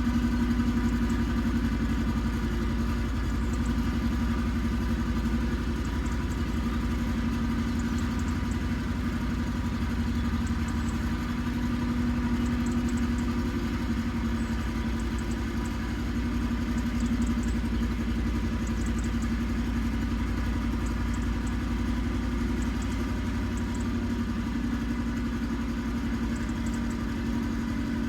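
Iseki TX1300 compact tractor's diesel engine running at a steady, unchanging speed.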